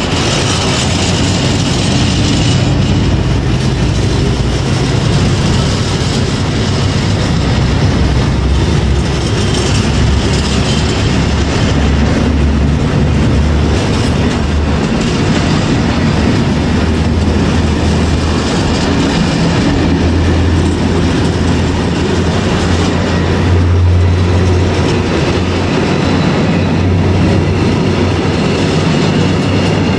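Diesel-hauled freight train passing close by, its wagons rolling steadily over the rails, with a steady low drone that grows stronger in the second half.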